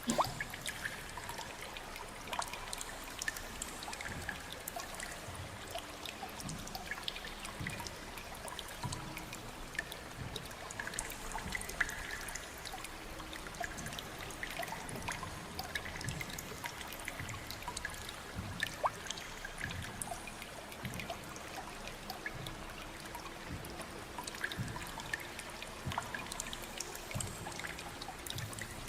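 Water trickling and dripping: a steady wash of running water dotted with many small drips and splashes.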